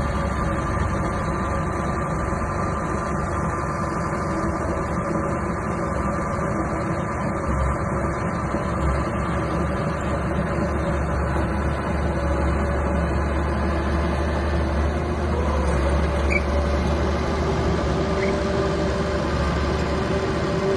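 Small crawler bulldozer's diesel engine running steadily.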